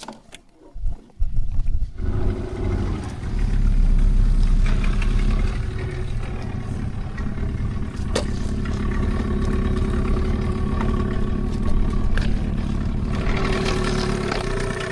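An engine running steadily, starting about a second in, with a sharp click about eight seconds in.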